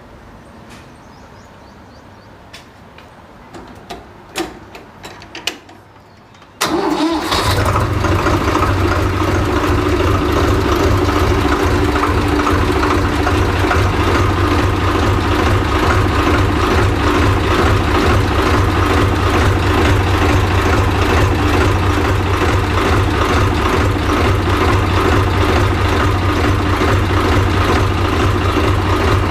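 A few light clicks and knocks, then about six and a half seconds in a tractor's diesel engine starts and settles into a steady idle with a strong low hum.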